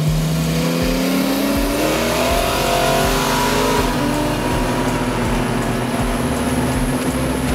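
Holden VL Commodore's turbocharged RB30 straight-six accelerating hard, heard from inside the cabin: the engine note rises in pitch over the first few seconds, then holds steady.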